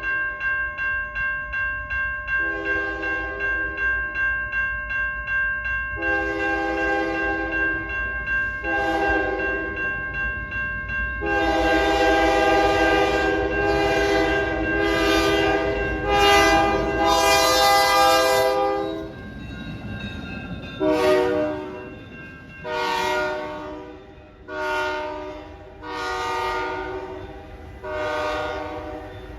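Grade-crossing warning bell ringing steadily while a locomotive air horn sounds the crossing signal: two long blasts, a short one and a long one. The train then passes, with a rush of noise, and the horn keeps sounding short blasts about every two seconds.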